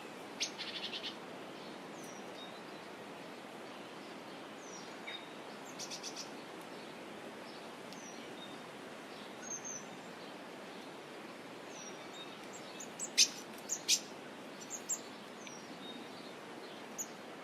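Wild birds chirping and calling over a steady background hiss: short high chirps and little falling whistles scattered throughout, with a quick trill near the start and a few sharp, louder chirps about two-thirds of the way in.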